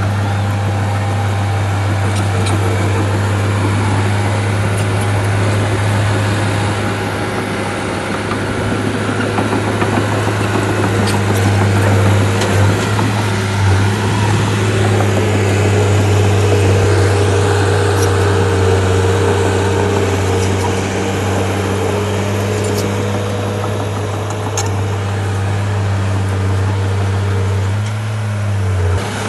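Bulldozer's diesel engine running steadily with a deep, even hum, and a few faint ticks now and then.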